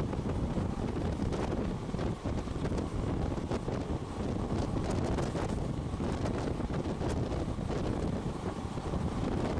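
Wind buffeting the microphone over the steady running rumble of a moving train.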